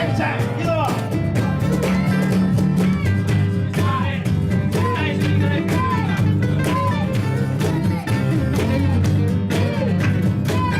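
Live band playing an instrumental passage between sung verses: guitar, bass and drums keeping a steady beat, with a lead line of bent notes rising and falling over it.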